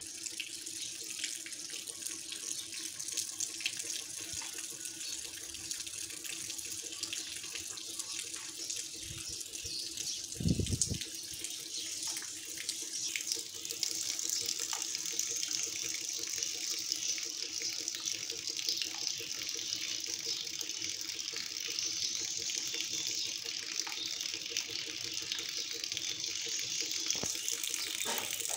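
Steady hiss and patter of light rain falling, over a faint steady low hum. One brief low thump about ten seconds in.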